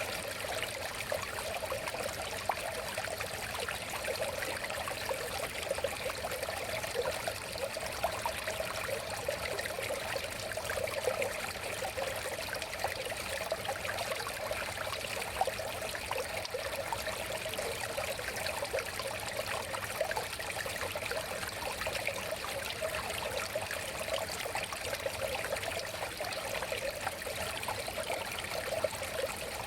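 River water flowing and trickling steadily, a continuous babbling rush with many small splashes.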